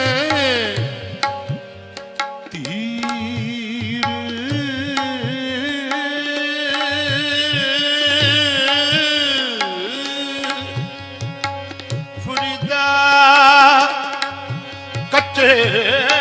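Instrumental interlude of Sikh kirtan: a harmonium plays a sustained melody while a tabla keeps a steady rhythm.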